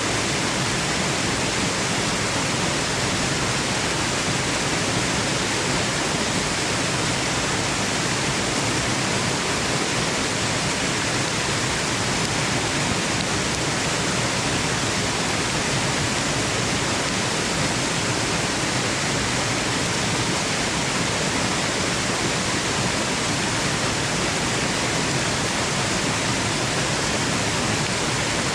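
Waterfall rushing: a steady, unbroken roar of falling water with no other sounds.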